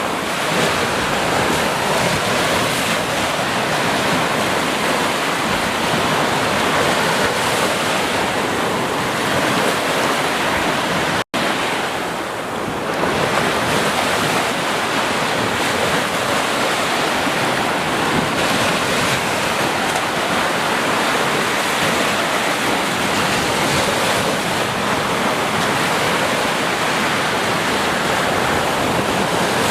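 Ocean surf washing onto a beach: a continuous, steady rush of waves. The sound cuts out for an instant about eleven seconds in, then resumes.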